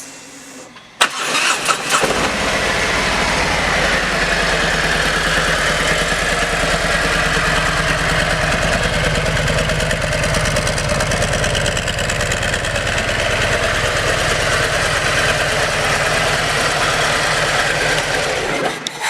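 2017 Harley-Davidson CVO Street Glide's 114 cubic inch V-twin with aftermarket exhaust being started: a click about a second in and a brief crank, then the engine catches and idles steadily with an even pulse until it is shut off near the end.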